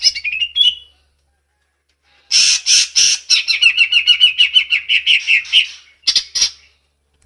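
A songbird singing a fast trill of rapidly repeated high notes that fades out within the first second. After a short pause comes a longer phrase of rapid repeated notes, then two short separate notes near the end.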